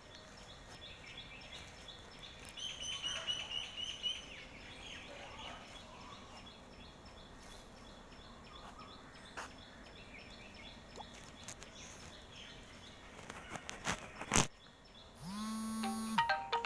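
Faint outdoor ambience with small birds chirping. A sharp crack comes a little after two-thirds of the way through, and a pitched electronic melody like a ringtone starts near the end.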